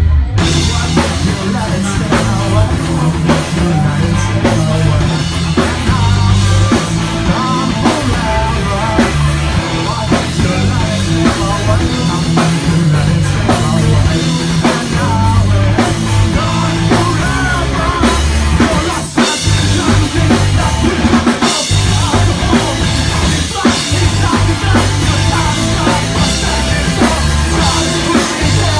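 Live rock band playing an instrumental stretch of a song, with drum kit and bass carrying a steady beat and a brief break about nineteen seconds in.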